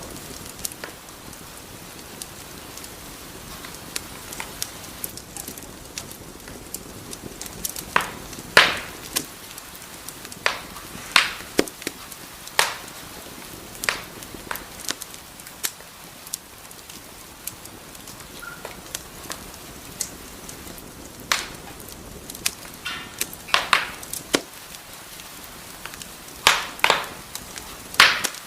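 Wood fire burning in a fireplace, a steady soft hiss broken by irregular sharp crackles and pops, several of them loud.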